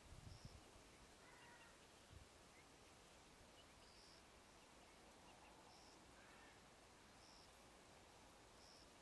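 Near silence in the open, with a faint short high bird chirp every second or two and a couple of soft low thumps near the start. The distant locomotive is not heard.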